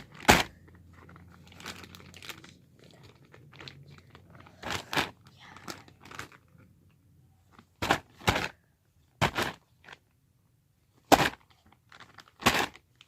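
Plastic bag crinkling in short, sharp bursts, about eight of them with pauses between, as slime is squeezed and pulled out of it.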